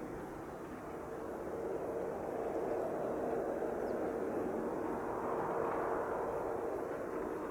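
Embraer Phenom 300 business jet's twin turbofan engines during its landing, a steady jet hum with a held tone that grows louder over the first few seconds and eases slightly near the end.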